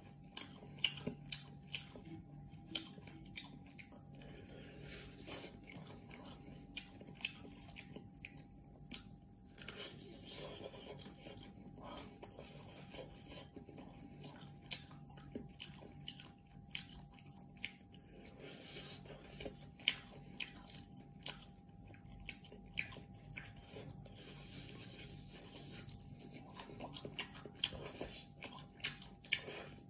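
A person eating with chopsticks from a bowl of noodles and fried food: close-up chewing and biting, with frequent small clicks throughout.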